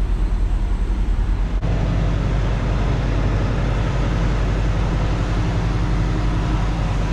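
Peterbilt 579 semi truck's diesel engine running steadily, a low pulsing rumble, with an abrupt change in its sound about a second and a half in.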